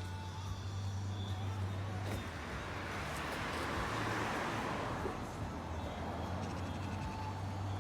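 A passing vehicle: road noise swells to a peak around the middle and then fades, over a steady low hum.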